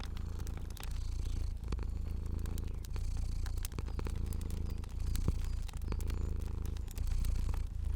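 A cat purring steadily, a low continuous purr that breaks briefly about once a second with each breath, with scattered sharp pops and crackles from a crackling fire over it.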